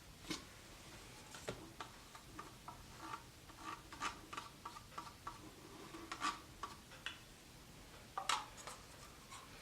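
Faint, scattered small ticks and taps of paint cups being handled while acrylic paint is poured into a pour cup, a few taps a little louder.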